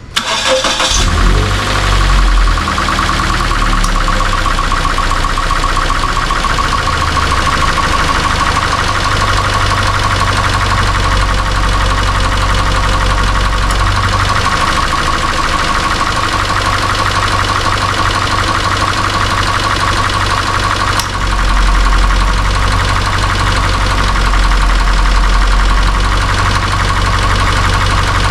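Toyota 86 (ZN6) FA20 flat-four engine starting up and then idling steadily, with its low hum shifting and getting stronger about 21 seconds in.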